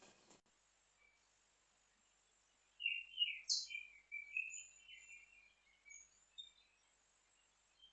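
Bird chirping: a quick run of short, high twittering chirps that starts about three seconds in and fades out a few seconds later.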